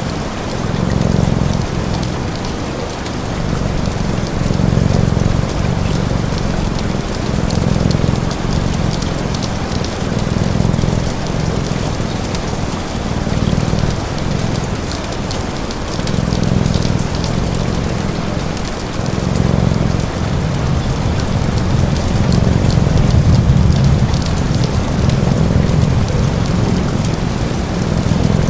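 Steady rain hiss with fine crackles, over a low cat purr that swells and fades every couple of seconds.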